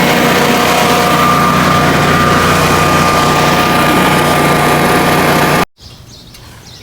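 Generac 20 kW home standby generator's engine running steadily at speed after a first start with a new mixer assembly fitted. It cuts off abruptly near the end, leaving a faint background.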